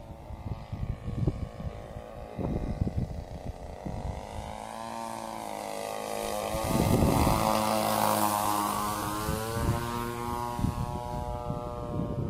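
Glow-engined RC model biplane flying past: the engine and propeller drone rises in pitch and loudness to a peak about two-thirds of the way in, then drops in pitch as the plane passes and moves away. Wind buffets the microphone throughout.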